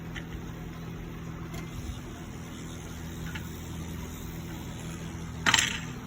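Dell Inspiron 3521 laptop's speaker giving a steady low buzzing hum while powered on, a fault noise that comes with the screen staying black. A short clatter near the end.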